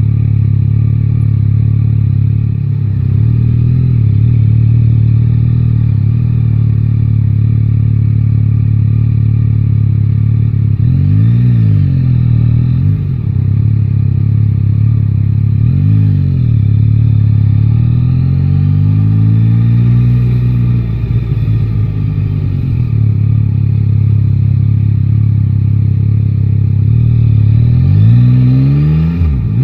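Yamaha Tracer 9 GT's 890 cc inline-three engine running while riding. Its pitch dips and climbs again several times as the throttle is rolled off and opened through the gears.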